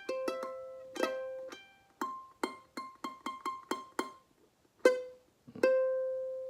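aNueNue Moon Bird soprano ukulele played as single plucked notes: a few spaced notes, then a quicker run in the middle, ending on one long ringing note. The playing is halting, with the player struggling to get the E string right.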